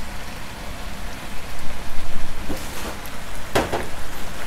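Chicken and vegetables sizzling steadily in a hot frying pan, with a couple of short clatters near the end.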